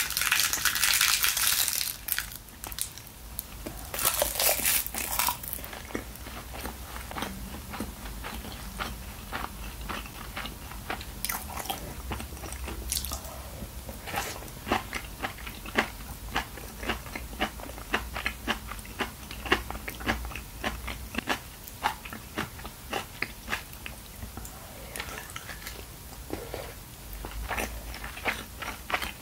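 Close-miked chewing of braised chicken and aged kimchi: a steady run of small wet clicks and crackles from the mouth. Two louder rushes of noise come in the first five seconds.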